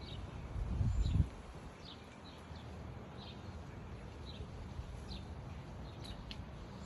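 Small birds calling outdoors: short, falling chirps repeated about once or twice a second, over a steady low rumble that swells loudest about a second in.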